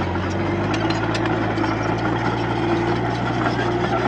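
Heavy diesel engine of earthmoving machinery running steadily at an even speed, with faint clicking and rattling over it.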